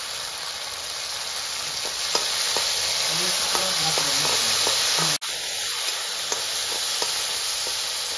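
Pumpkin seeds sizzling as they fry in oil in a metal karai, stirred with a spatula that scrapes the pan, giving scattered clicks over a steady hiss. The sound cuts out for an instant about five seconds in.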